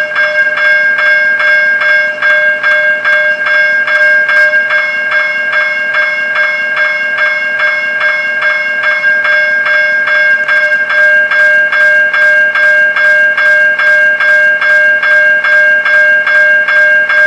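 Railroad crossing warning bell ringing loudly with steady, evenly spaced strokes while the crossing is active. From about ten seconds in, a low rhythmic thumping joins in.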